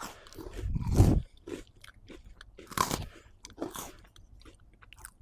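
Crunching and chewing of an Oreo cookie being bitten, in irregular crunches with the loudest about a second in and two more a little before and after the three-second mark.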